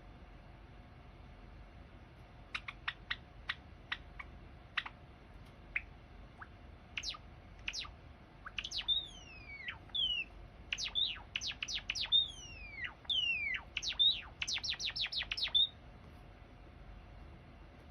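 Java sparrow singing: sharp, quick chip notes that come faster and faster, mixed with longer notes sliding down in pitch, ending in a rapid run of chips.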